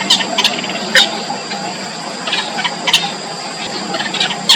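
Four-day-old nestlings peeping in short, high chirps, scattered irregularly about eight times, over a steady high-pitched background whine.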